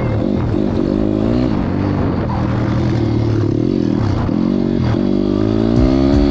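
Pit bike engine being ridden hard: revving up and falling back again and again, its pitch climbing and then dropping several times over a few seconds.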